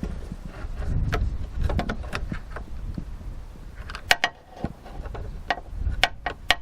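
Sharp clicks and light metallic knocks from the Land Rover Discovery 2 rear door's lock mechanism, as its levers and handle linkage are worked by hand inside the stripped door, over a low, uneven rumble.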